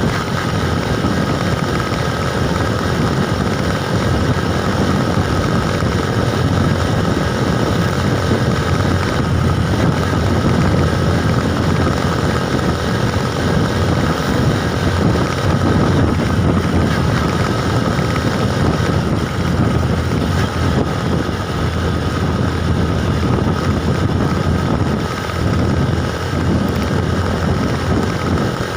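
Wind buffeting a microphone that is riding along on a moving bike, with steady travel noise underneath. The noise is loud and even, with a brief dip near the end.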